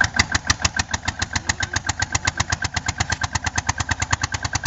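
Allgaier tractor's diesel engine running at a steady speed, its exhaust beating evenly at about ten puffs a second.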